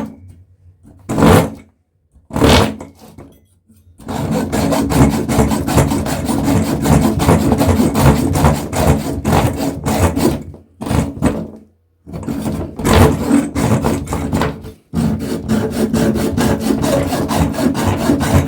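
Rapid rasping, scraping strokes of metal being worked, in three long runs with short breaks between, as a PC heat sink clamped in a vise is worked to free its copper core from the aluminium fins.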